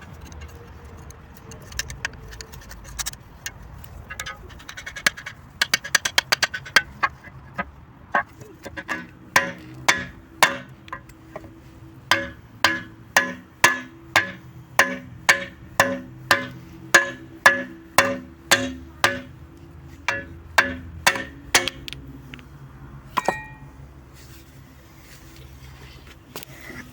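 Hammer blows on a steel shovel blade and socket, driving out the broken stub of the wooden handle. The strikes come irregularly at first, then in a steady run of about two ringing metallic hits a second for about fourteen seconds before they stop.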